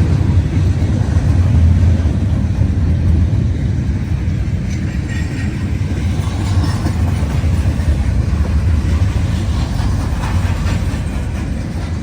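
Freight train rolling past with a steady, loud low rumble from its cars on the rails.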